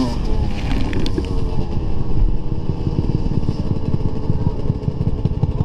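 Dirt bike engine running while being ridden, its pitch holding fairly steady over a continuous low rumble.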